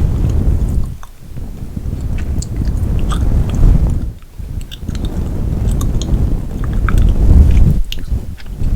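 Close-miked gum chewing: small wet clicks and smacks over a loud low rumble that drops out briefly three times.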